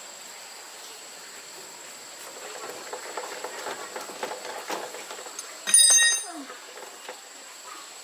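Irregular clattering and knocking of handled metal parts, then a brief, loud, high-pitched squeal about six seconds in. A faint steady high whine sits underneath.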